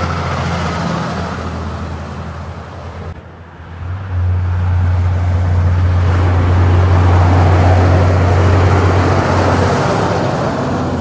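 Heavy trucks driving past: a low diesel engine drone fades over the first three seconds, then after a brief drop a second, louder drone with tyre noise swells in, peaks and eases off near the end.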